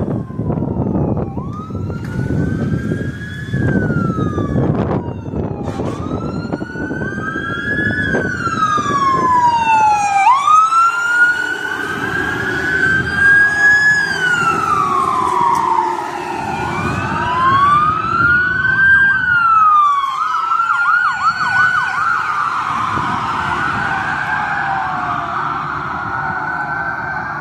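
Several emergency-vehicle sirens wailing at once, their rising and falling tones overlapping, with a faster yelp pattern about two-thirds of the way through. A heavy low rumble from the passing vehicles is strong in the first few seconds.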